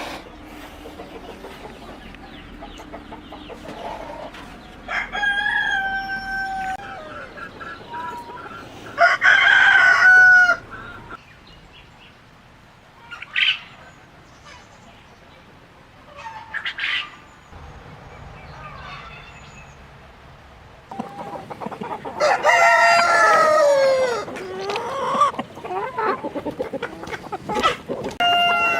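Free-range chickens: roosters crowing several times, with shorter clucks and calls in between. The longest and loudest crow comes near the end and falls in pitch as it trails off.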